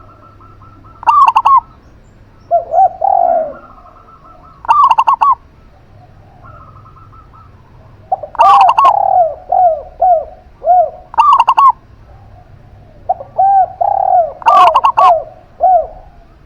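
Zebra dove and spotted dove cooing in turns. Short clusters of higher, ringing coos come every few seconds, and runs of lower, arched coos answer in between.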